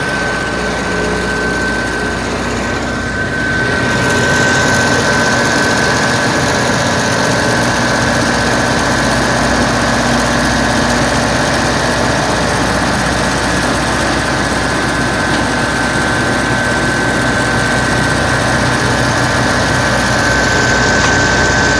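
Engine running steadily through a newly fitted exhaust, with a steady high whine over the engine note; it gets a little louder about four seconds in.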